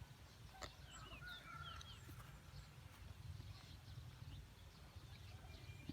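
Faint outdoor ambience: a few short bird chirps in the first two seconds over a steady low rumble.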